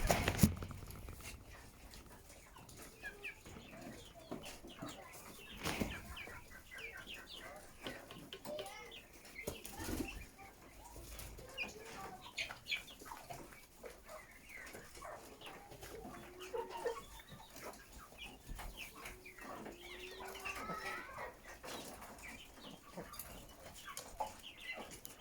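A flock of chickens clucking and calling, many short overlapping calls, with scattered sharp clicks and a louder burst right at the start.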